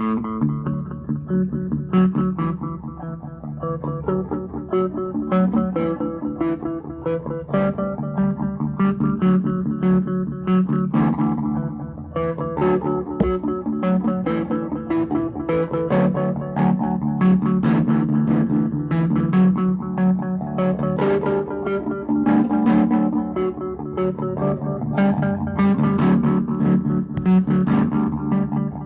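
Donner DMT-100 electric guitar played in a steady run of picked notes and chords, jamming without a backing track.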